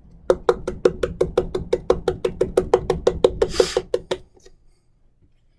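Rapid, even tapping on the mustard jar, about six knocks a second with a hollow ringing tone, to knock the thick mustard out into a bowl. The knocking stops a little after four seconds in.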